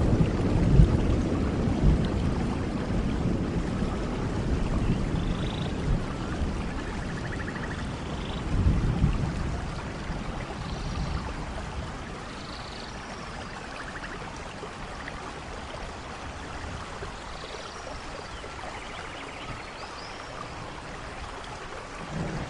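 Steady rainfall with a low rumble of thunder that swells again briefly and dies away over the first half. Faint short high chirps are scattered through.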